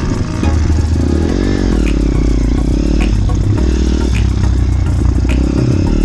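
Small off-road vehicle engine running while riding along, its revs rising and falling, with rattling and clattering over the top.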